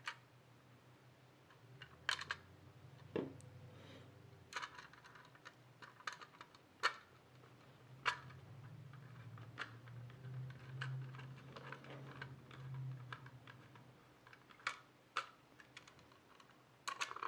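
Small screws being hand-tightened into a 2.5-inch SATA SSD on a PC case's drive bracket: scattered light clicks and taps of metal parts, spaced irregularly, over a faint low hum.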